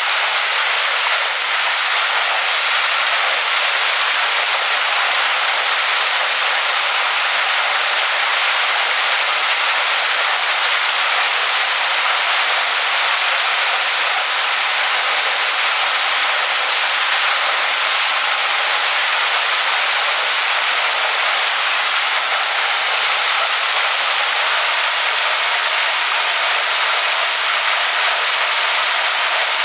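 Waterfall splashing onto rocks: a steady, bright rush of falling water that stays even throughout.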